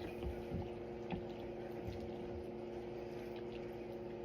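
Steady low hum from a running household appliance, made of several constant tones, with a few faint light knocks.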